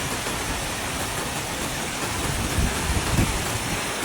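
Steady rushing hiss of floodwater and rain, with a few low rumbles between about two and a half and three and a half seconds in.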